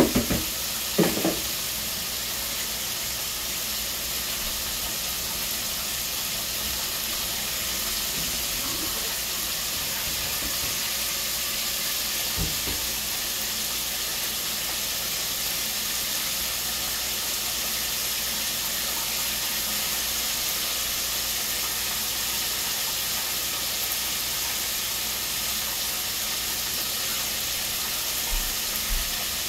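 Chicken frying in hot oil on the stove: a steady sizzling hiss, with a few knocks of cookware in the first second and one more near the middle.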